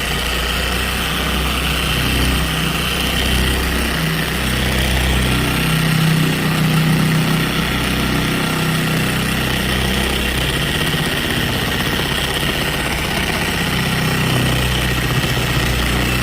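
Electric paint polisher running steadily, buffing cutting compound into a bird-dropping etch in car paint. Its hum changes pitch a little around two thirds of the way in.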